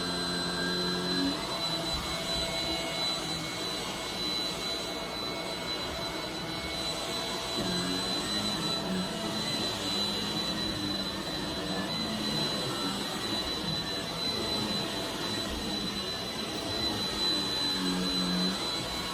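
Shark Rocket stick vacuum running steadily: a high motor whine over a rush of air, with a lower hum that shifts a few times as the vacuum is worked.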